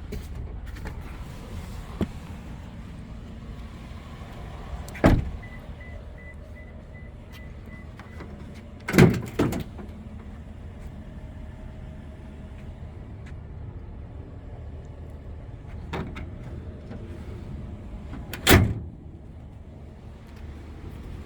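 Toyota Tundra pickup's tailgate being worked, with three loud thumps about 5, 9 and 18 seconds in over the steady low hum of the idling truck. A faint rapid beeping sounds for about three seconds after the first thump.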